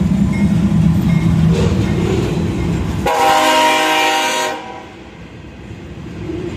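Diesel locomotive engine running loudly as the train approaches, then about three seconds in a horn blast of about a second and a half that cuts off abruptly, after which the sound drops much quieter.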